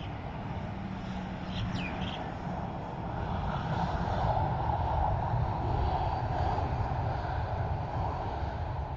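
Jet airliner engines running, a steady rumble that swells about three and a half seconds in and holds, with one short high chirp near the start.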